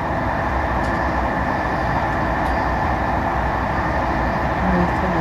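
Steady rumble and rolling noise of a passenger train running at speed, heard from inside the carriage.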